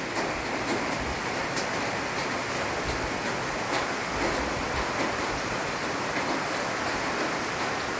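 Rain pouring steadily onto jungle leaves, an even hiss with scattered sharp drop hits.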